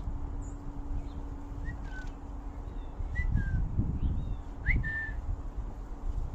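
Soft whistled calls: three pairs of short clear whistles, each pair stepping down in pitch, with a few faint higher chirps. Low rumble runs under them.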